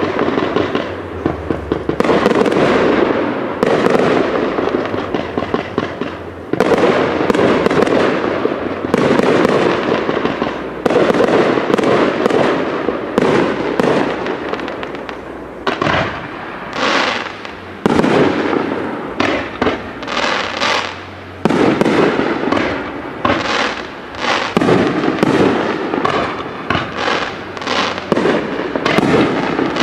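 Professional fireworks display: aerial shells launching and bursting in quick succession, dozens of loud bangs, each trailing off in an echo.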